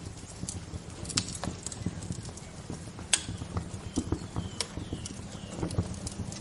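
Wood fire crackling, with sharp irregular pops over a low steady rumble; the loudest pop comes about three seconds in. A few short bird chirps sound between about four and five seconds in.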